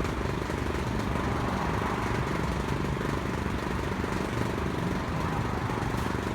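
Hyundai car engine running steadily at low speed.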